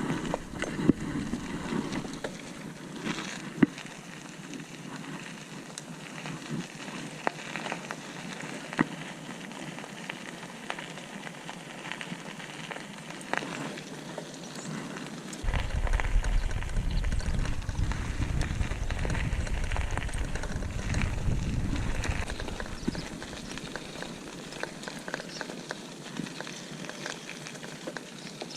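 Bicycle rolling along a dirt trail: tyres crackling over grit, with scattered small ticks and rattles. A low rumble comes in just past halfway and lasts about seven seconds.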